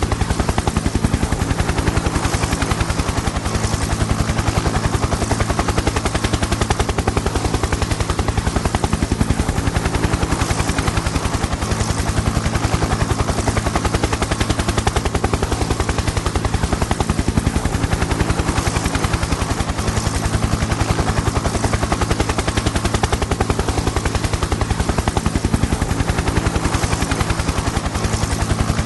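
Helicopter in flight: the rotor blades give a rapid, even chopping over a steady low drone, unchanging throughout.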